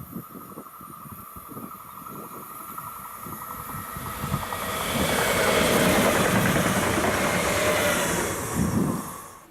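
A train passing on the line. The rumble and wheel noise build steadily for about five seconds, stay loud for about three, then cut off abruptly near the end.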